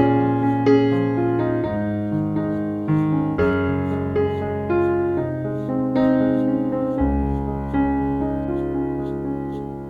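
Background piano music, slow and gentle, with sustained low bass notes under a changing melody.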